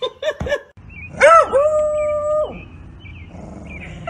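A dog howls one long held note lasting over a second, after a brief rising start, with a drop in pitch as it ends; softer whines and yips follow. Three short rising-and-falling cries come just before it at the very start.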